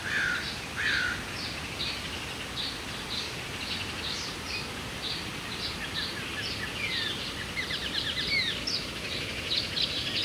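Several small birds chirping and singing over a steady background hiss: many short, high chirps throughout, with quick trilled runs of notes from about six to nine seconds in.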